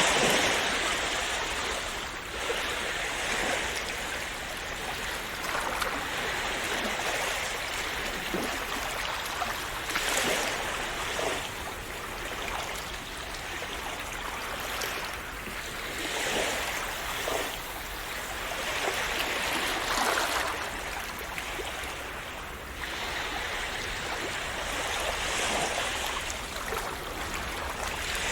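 Waves washing ashore: a continuous hiss of water that swells and eases every few seconds as each wave breaks and runs up.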